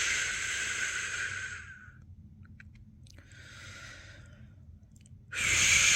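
A person shushing ("shhh") in long steady breaths to lull a newborn to sleep, the shush-pat method's white-noise sound. The loud shush fades out after about a second and a half, a shorter, softer shush follows in the middle, and the full shush starts again sharply near the end.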